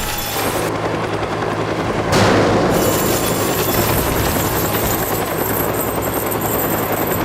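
A loud, steady mechanical rumble with a rapid flutter, like a helicopter-type engine sound effect, with a brief surge about two seconds in.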